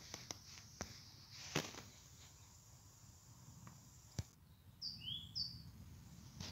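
A small bird gives three quick high chirps about five seconds in, against quiet background with a few faint scattered clicks and taps.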